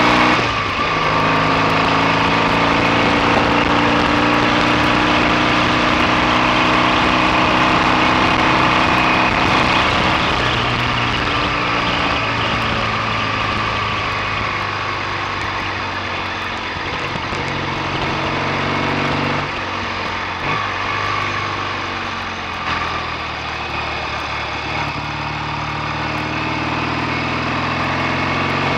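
BSA A65 650 cc parallel-twin engine running on the road. The note drops about half a second in, runs lower and less steady with a few brief dips in the second half, and rises again near the end.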